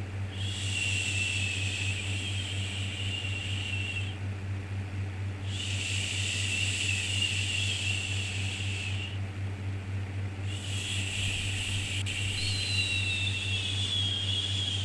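Soothing 'shhh' shushing for babies, repeated three times with short pauses between. Each shush lasts a few seconds, and the last one overlaps with a second, slightly higher shush. A steady low hum runs underneath.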